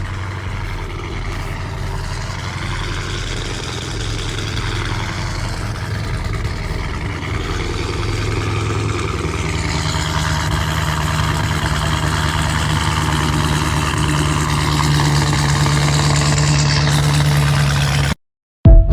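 Mopar car engine idling just after a cold start, a steady low note that steps up in pitch and gets a little louder about halfway through. It cuts off suddenly near the end, followed by a brief, very loud burst.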